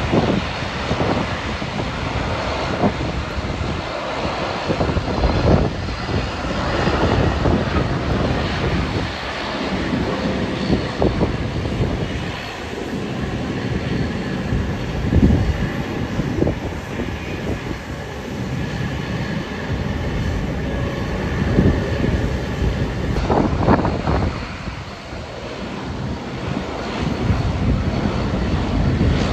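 Jet airliner engines running with a steady high whine that fades out about 23 seconds in, under loud gusty wind buffeting the microphone.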